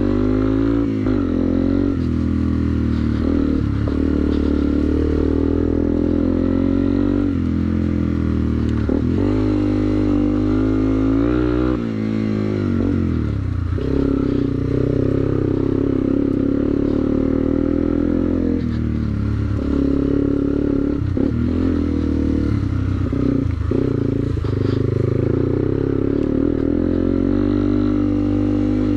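Yamaha TW200's air-cooled single-cylinder four-stroke engine running under way off-road. The revs repeatedly climb and drop back as the bike is accelerated, shifted and eased off.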